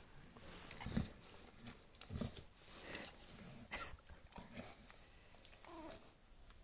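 Six-day-old bulldog puppies in their sleep, making faint snuffling breaths and a few small whimpering squeaks near the end, with a couple of soft bumps from their movement.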